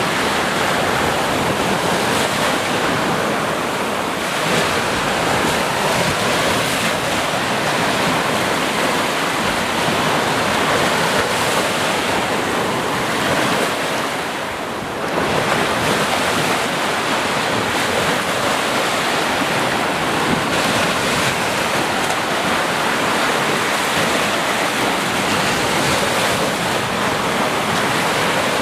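Sea surf: a continuous wash of waves on a shore, steady throughout, easing briefly about halfway through before surging back.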